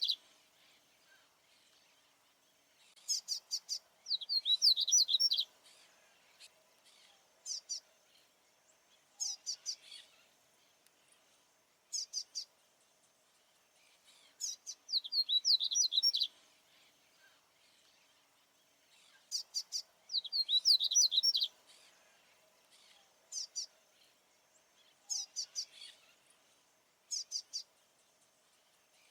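Male papa-capim baianinho seedeater singing: bright, rapid phrases of high chirping notes, each one to two seconds long, repeated every few seconds with short single notes between. This is the territorial song a male uses to keep rival males away.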